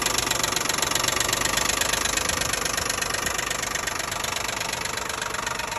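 2012 Nissan Maxima's 3.5 L V6 running at idle with a steady, rapid ticking clatter from the top of the engine. The noise comes from a broken intake camshaft sprocket that is missing a piece.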